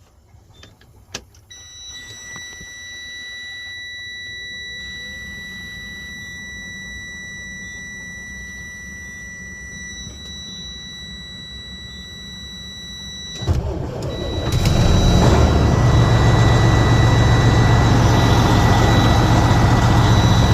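A Freightliner Columbia's Detroit Series 60 inline-six diesel being started: after a click, a steady high-pitched dash warning buzzer sounds for several seconds, then about thirteen seconds in the engine fires with a sudden burst and settles into a loud, steady idle, with the buzzer still sounding faintly.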